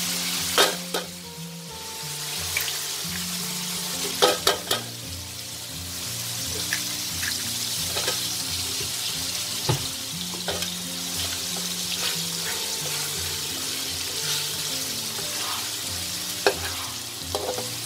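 Eggs and diced pumpkin sizzling in hot oil in a steel wok, a steady hiss, broken by a few sharp taps, the last ones near the end as a metal spatula starts stirring against the wok. Soft background music with held notes plays underneath.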